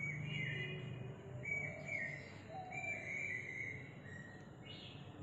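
Birds calling faintly in the background, a series of short high calls, over a low steady hum of outdoor background noise.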